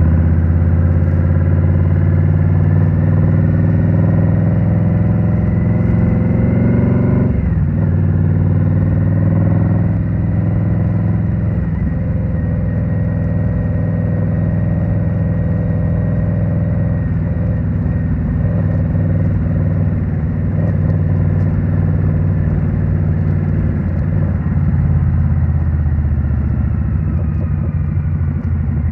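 Indian Scout Rogue's 69 cubic-inch V-twin running through a Rinehart slip-on exhaust. It climbs in revs for about seven seconds, drops sharply at a gear change, then holds a steady cruise.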